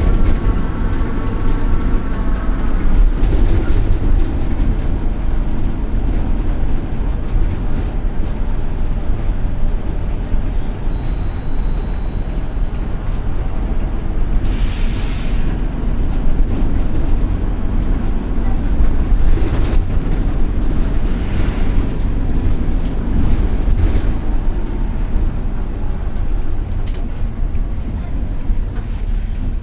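Mercedes-Benz OF-1722M bus diesel engine running with a steady low rumble, its turbocharger whistling. There is a short burst of air hiss about halfway through, and a thin high whistle near the end.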